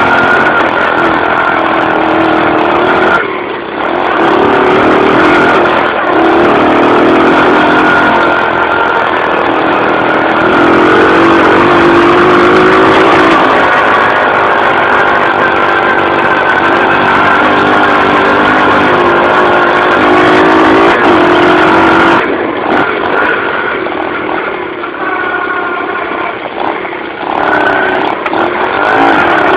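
Dirt bike engine being ridden, its pitch rising and falling with the throttle, easing off briefly about three seconds in and again for several seconds near the end.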